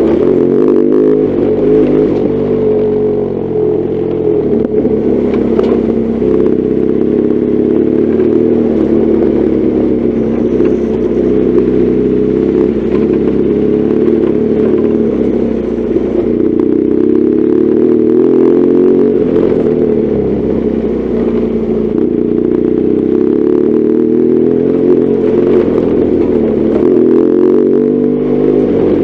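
BMW R1200GS Adventure's boxer-twin engine running steadily while the motorcycle is ridden, its engine speed rising and falling slightly, with some light clatter.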